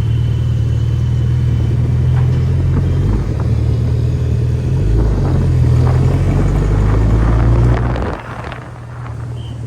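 Suzuki Hayabusa motorcycle engine running steadily at low speed in traffic, a deep even hum that drops away about eight seconds in.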